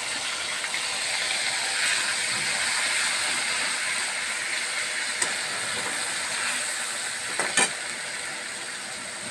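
Ginger-onion-garlic paste frying in hot oil in a pan, a steady sizzle, with a short knock about seven and a half seconds in.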